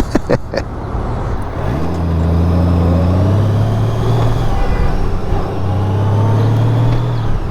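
2018 Honda Gold Wing's flat-six engine pulling on the road. Its note climbs in about two seconds in, holds steady, then eases off near the end, over steady wind and road noise.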